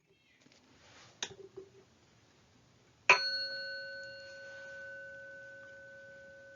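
A few light clicks, then about three seconds in a meditation bell is struck once and rings on with a long, slowly fading tone, marking the start of the practice.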